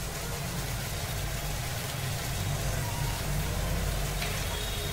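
Chicken tikka pieces sizzling in a kadhai as their liquid is cooked off to roast them dry, over a steady low hum.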